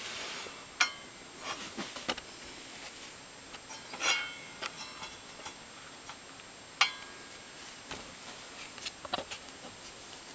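Scattered light clicks and knocks, with a short ringing metallic clink about four seconds in: hand tools and metal parts being handled on a table saw while its alignment is adjusted.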